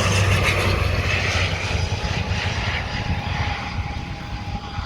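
Airplane flying low overhead: a loud engine rumble and rushing noise with a faint steady whine, slowly fading as it passes.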